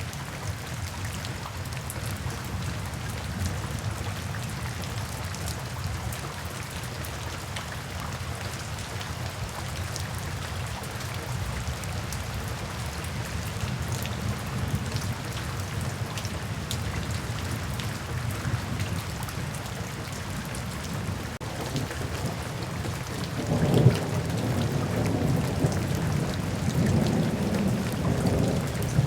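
Steady rain falling, with a low rumble of thunder underneath. About 24 seconds in, a louder roll of thunder breaks and rumbles on to the end.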